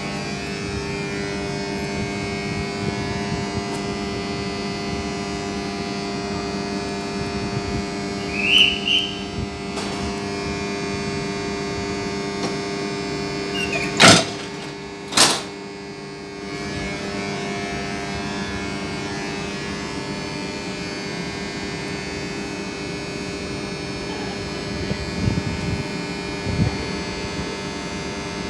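Steady hum of a Corail Intercités train standing at the platform, holding several level tones at once. Two sharp knocks about halfway through, a second or so apart, and a few lighter knocks near the end.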